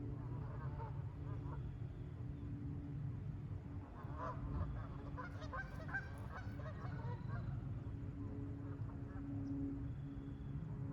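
Geese honking, a flurry of overlapping calls in the middle and scattered calls around it, over a low steady background rumble.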